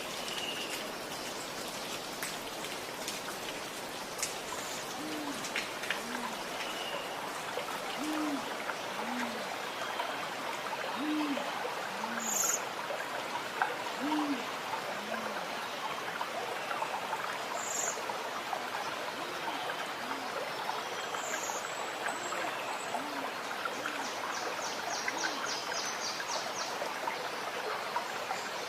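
Running water gurgling steadily while a bird gives low hooting calls in alternating higher and lower pairs, about one a second, from about five seconds in. Now and then a brief high chirp from another bird.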